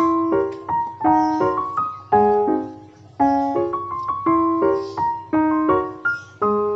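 Piano music: a calm melody of single notes and chords, each struck and then fading, a new one about every half second.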